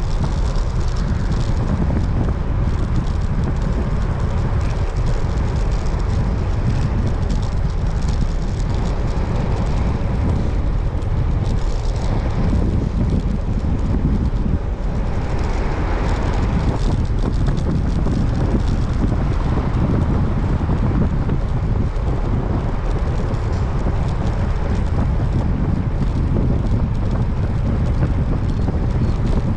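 Steady wind rushing and buffeting over the microphone of a rider on a moving road bicycle, a heavy low rumble with no break.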